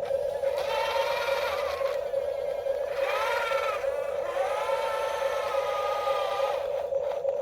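Small electric motors of remote-control construction toys whining in three spurts, their pitch rising and falling, over a steady hum.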